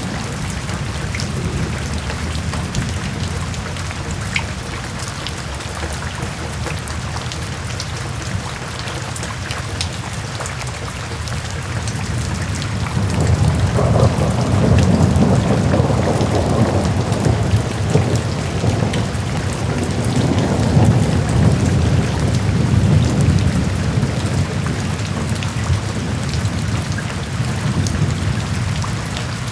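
Steady rain, an even hiss peppered with small drop ticks. About halfway in, a long low rumble of thunder swells up, rolls on for some fifteen seconds, and fades away near the end.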